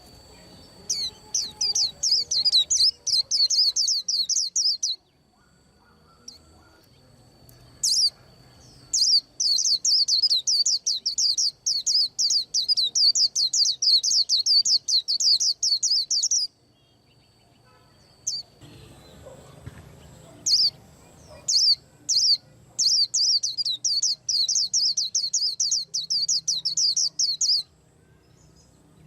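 A white-eye singing in long bouts of fast, high chirps, each run lasting several seconds, with short pauses between them. A faint steady high tone is heard under parts of the song.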